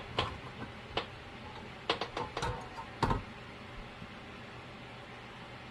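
Light knocks and clicks of hands handling the opened chassis of a CB radio, about half a dozen in the first three seconds, then only a faint steady hum.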